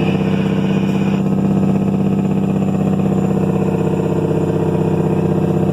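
Cat 3406E diesel running through 8-inch straight-pipe exhausts, heard from the truck cab with the window down: a loud, steady, pulsing rumble at an unchanging engine speed.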